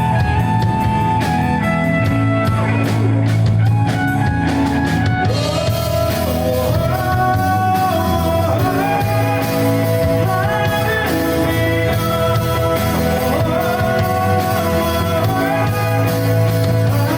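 Rock band playing live: drums, electric guitar and bass with a singing voice. The sound fills out about five seconds in, with the cymbals going from separate strokes to a steady wash.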